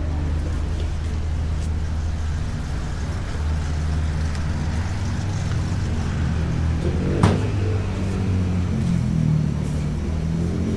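Steady low rumble of a car running, as heard from inside the vehicle, with one sharp click about seven seconds in.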